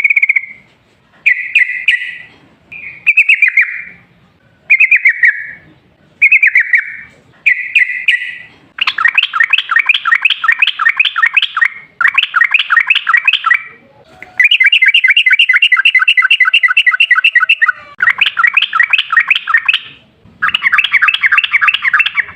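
Yellow-vented bulbul (trucukan) singing loudly. Short bubbly phrases come about every second and a half at first. About nine seconds in, it breaks into long, fast rattling runs of repeated notes, the 'ropel' song.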